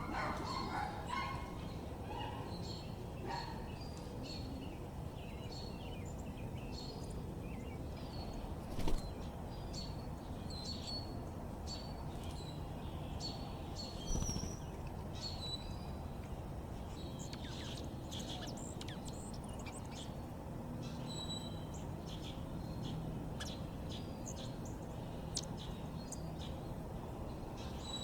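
Small backyard birds chirping, many short high calls scattered throughout over a steady low outdoor rumble, with two brief knocks about nine and fourteen seconds in.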